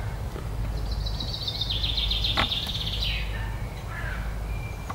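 A songbird singing a fast trill that falls slightly in pitch over about two and a half seconds, then a few softer chirps, over a low steady rumble.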